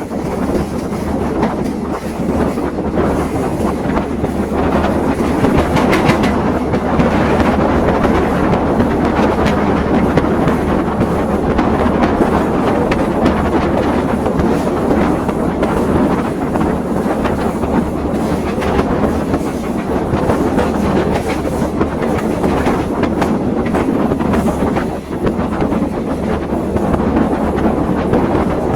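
Passenger train running along the track, heard from on board: a steady rumble of the carriage with the clickety-clack of wheels passing over rail joints.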